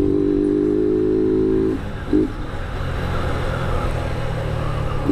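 Motorcycle engine held at steady high revs, then dropping about two seconds in to a lower, rougher idle that runs on.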